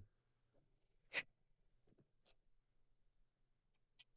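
Near silence, broken by one short sharp tap about a second in and a few faint clicks near the end.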